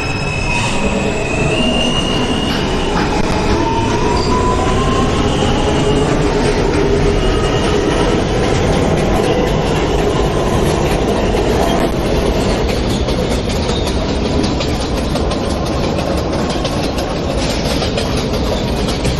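New York City Subway J train running, heard from inside the car. A motor whine rises in pitch over the first few seconds as it picks up speed, then the wheels keep up a steady rumble on the rails with clicks over the rail joints.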